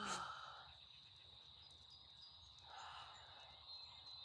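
Faint steady high-pitched trill of crickets, with two soft breaths, one right at the start and a weaker one about three seconds in.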